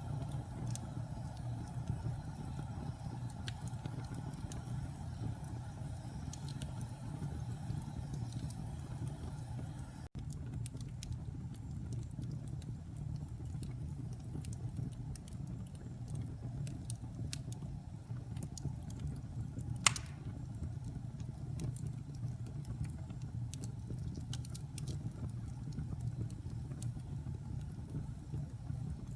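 Wood fire burning in a fireplace: a steady low roar with scattered small crackles and one sharp pop about twenty seconds in. The sound cuts out for an instant about ten seconds in.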